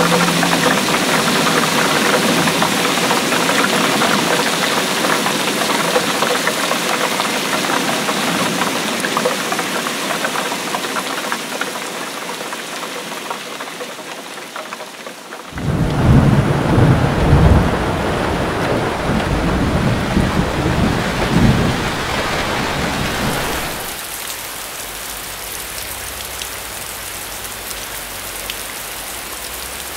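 Steady rain falling. About halfway through, thunder sets in with a low rumble lasting around eight seconds, and after it the rain carries on more softly.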